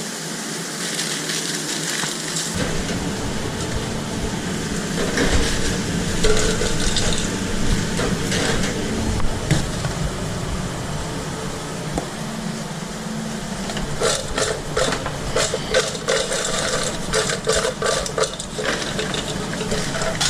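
Food truck kitchen at work: a steady hiss with clatter and clicks of utensils and containers, thickest about three-quarters of the way through.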